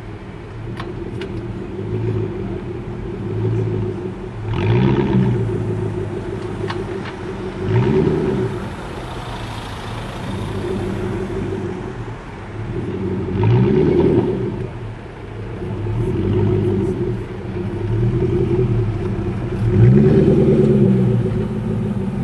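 Ford GT's supercharged V8 idling and being revved several times, the pitch rising and falling back to idle with each blip of the throttle.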